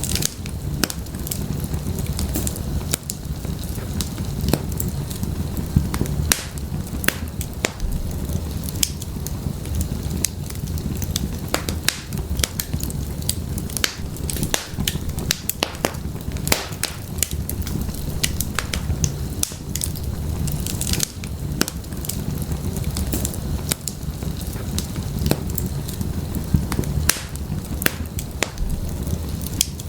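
Wood fire burning in a fireplace: a low steady rumble of the flames with frequent sharp, irregular crackles and pops.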